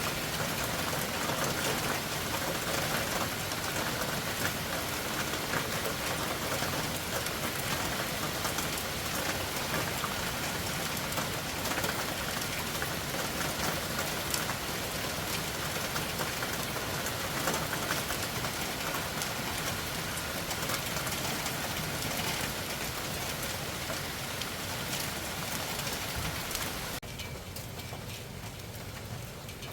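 Heavy night rain falling steadily outside a window: an even hiss with scattered drop ticks. About three seconds before the end the hiss drops away suddenly and the rain sounds quieter.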